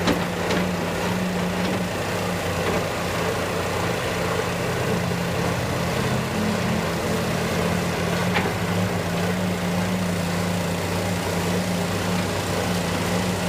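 Heavy machinery engine running steadily at an even pitch.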